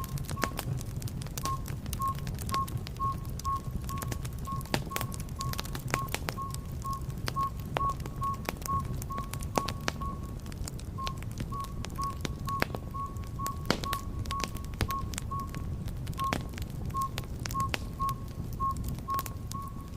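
Wood fire burning in a fireplace: a steady low rumble with frequent irregular crackles and pops. A high tone pulses about twice a second alongside it.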